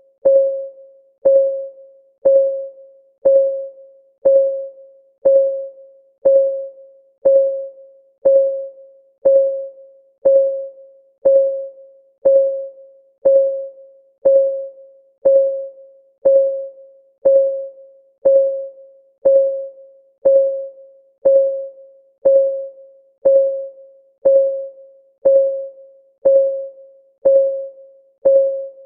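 Countdown timer's clock-ticking sound effect: one short, pitched tick each second, steady and evenly spaced, each dying away quickly.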